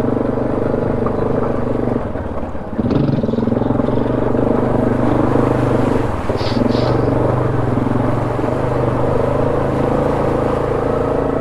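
ATV engine running under way on a rough trail, with the revs easing off about two seconds in and picking up again.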